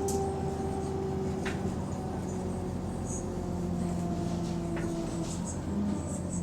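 Diesel engine of a London bus running under way: a steady drone with a few light clicks and rattles. The uploader says the bus has a small exhaust leak.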